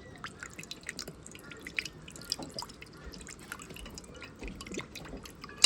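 Irregular small drips and light ticks as sauce is shaken or poured from a bottle onto food.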